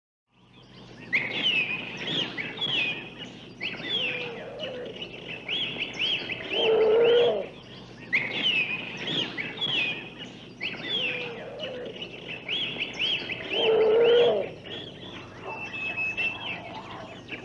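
Birdsong: many short falling chirps in a chorus, with a louder, lower-pitched animal call twice, about seven seconds apart. The same sequence repeats about every seven seconds.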